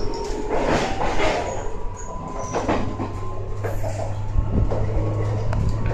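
Running noise inside a 185 series electric train carriage under way: a steady low hum that grows stronger about a second and a half in, with scattered knocks from the wheels and rails.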